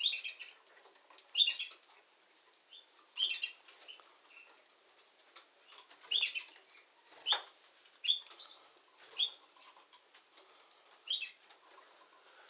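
Caged canary giving short, high chirps every second or two, with wing flutters and light clicks from its movements between them and one sharper knock about seven seconds in.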